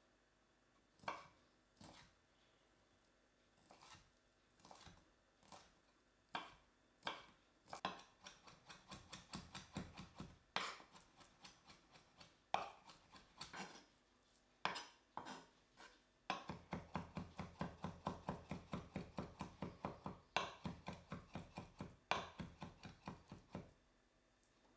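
Kitchen knife chopping food on a cutting board: a few separate cuts at first, then runs of quick, even chops at about four strokes a second.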